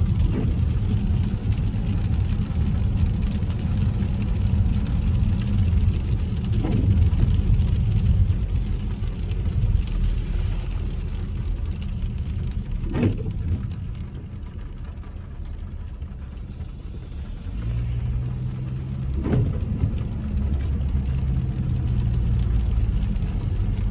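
Car cabin noise while driving on rain-wet roads: a steady low road and engine rumble with tyre hiss. Three brief sounds come about six seconds apart, and the noise drops for a few seconds past the middle.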